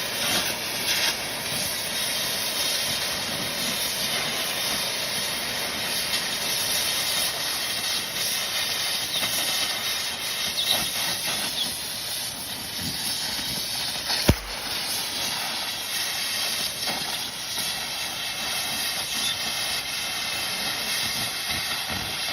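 Electric welding arc hissing steadily, with one sharp knock about two-thirds of the way through.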